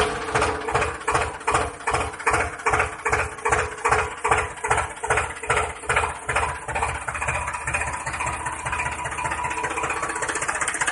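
Engine starting up and running with a regular chugging, about three beats a second, which evens out into a steady drone over the last few seconds.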